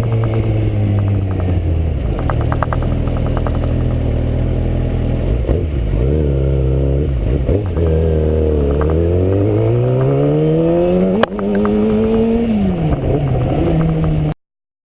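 2009 Kawasaki Ninja ZX-6R's inline-four engine running on the move, its revs easing off and holding, then climbing steadily, with a brief sharp break about eleven seconds in before the revs rise and fall again. The sound cuts off abruptly near the end.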